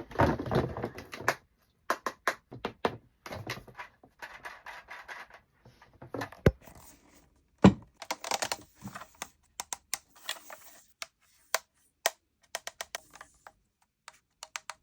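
Miniature plastic toys and their packaging handled up close: many small, sharp clicks and taps, with stretches of rustling and crinkling and a heavier knock about halfway through.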